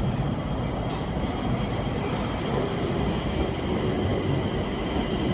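Stockholm Metro train running with a steady rumble and a faint, steady high-pitched tone above it.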